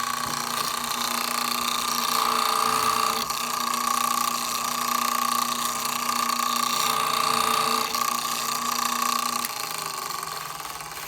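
Electric drill motor running steadily, boring countersinks for rivet heads in a wooden transmission band liner. It stops about nine seconds in and winds down.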